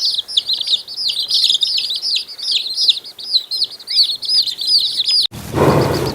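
Small birds chirping rapidly and continuously in short, high, arching notes. About five seconds in, the chirping cuts off abruptly and a loud, low, rough sound begins.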